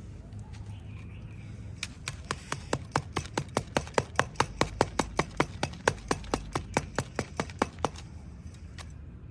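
Rapid, sharp, evenly spaced taps, about five a second, starting about two seconds in and stopping near the end: a mould of wet sand-cement paste being tapped to settle it.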